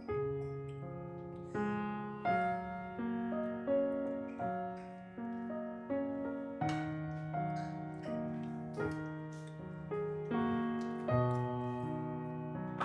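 Background music: a gentle solo piano piece, notes struck at an unhurried pace.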